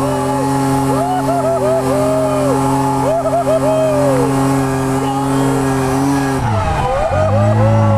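Ford FG Falcon ex-taxi drift car's engine held at steady revs while its tyres squeal in short chirps. About six and a half seconds in, the revs drop, then rise and fall again.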